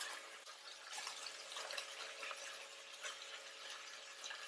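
Faint steady sizzle of chicken, onion and green pepper frying in peanut oil on high heat in an enamelled cast-iron pot, with a few light taps as chopsticks turn the food.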